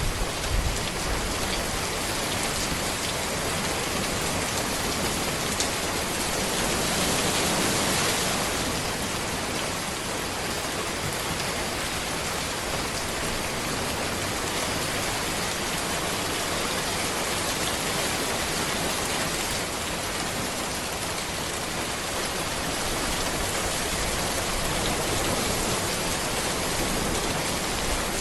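Steady rain falling on a road, a dense, even patter that swells a little for a couple of seconds about seven seconds in.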